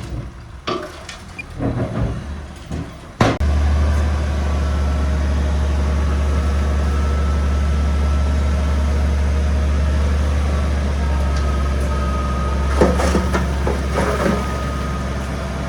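Heavy earthmoving machinery: irregular clanks and knocks for the first few seconds, ending in a sharp bang. A steady low diesel engine drone then starts suddenly and carries on, with a few more clanks near the end.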